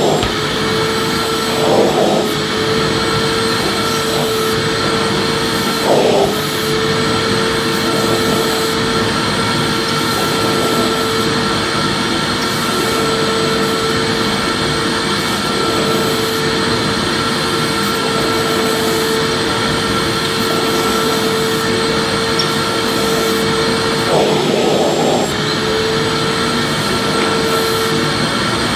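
Vacuum cleaner motor running steadily: a constant rushing noise with a steady whine, with brief small surges about 2, 6 and 25 seconds in.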